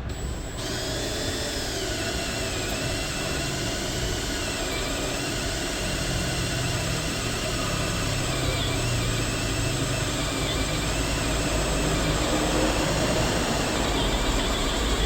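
Electric drill running steadily as it bores into a snapped rotor-fixing bolt on a drum washing machine. The drill starts about half a second in, and its whine wavers in pitch as the bit bites. It is kept at low speed so the bolt does not heat up and harden against the reverse tap.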